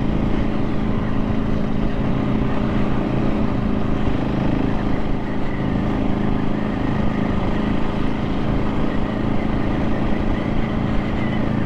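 KTM 690 SMC R's single-cylinder engine running at fairly steady revs while the bike is ridden along, with wind rushing over the microphone.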